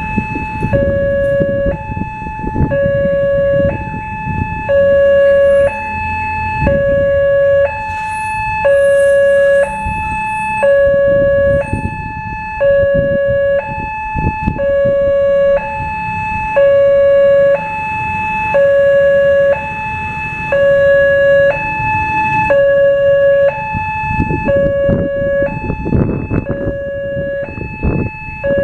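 Indonesian railway level-crossing warning siren sounding a shrill two-tone hi-lo wail, a low tone and a higher tone alternating evenly about every second and a bit, the warning that a train is approaching and the barriers are down. Road traffic rumbles underneath, swelling near the end.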